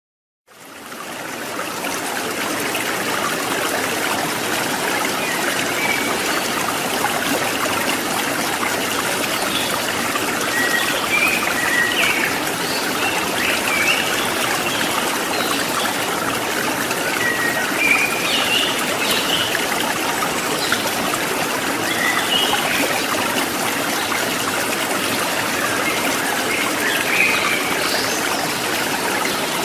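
Stream water trickling and splashing steadily, fading in over the first couple of seconds. Short, high chirps of small birds are scattered through it.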